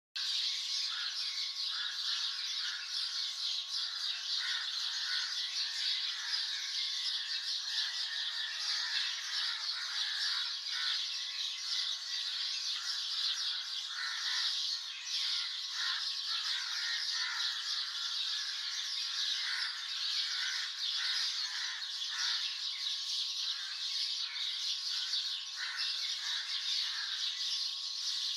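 Dawn chorus of many songbirds chirping and calling at once, densely overlapping and steady throughout, over a continuous high-pitched wash.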